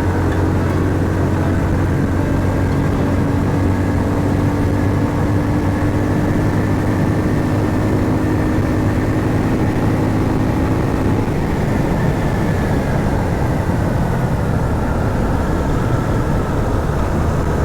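Motorcycle engine running at a steady cruising pitch under wind and road noise; the engine's held tone changes about two-thirds of the way through.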